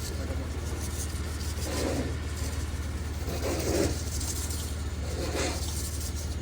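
De-icing rock salt being spread on a cleared driveway: three short gritty scattering bursts about two seconds apart, over a steady low hum.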